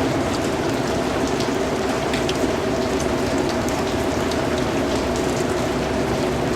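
Steady rain falling, a dense even hiss with the patter of individual drops scattered through it.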